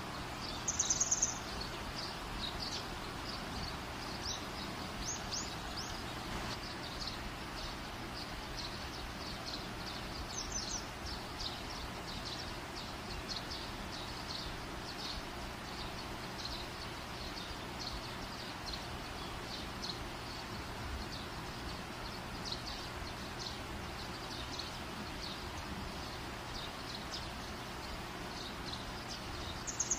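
Bird chirps, short and high, repeating over a steady background hiss, with a brief brighter trill about a second in.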